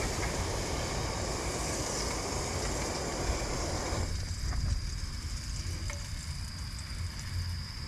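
Hamburger patties sizzling in a frying pan, the sizzle cutting off abruptly about halfway through. A steady low rumble runs underneath, with a few faint clicks after the sizzle stops.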